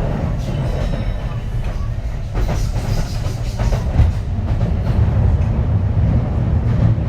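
Kintetsu 3220 series electric train heard from inside the car while running: a steady low rumble of wheels on rail with scattered knocks from rail joints, a little louder in the second half.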